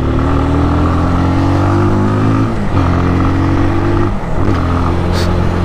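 Benelli motorcycle engine pulling under acceleration on the road. Its note climbs steadily, drops briefly twice as it shifts up a gear, then runs on steadily.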